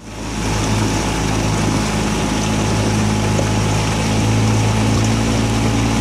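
Motorboat engine running steadily, a constant low hum under an even hiss.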